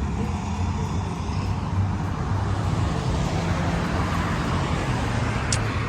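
Car traffic: a steady low engine rumble with road noise running on evenly.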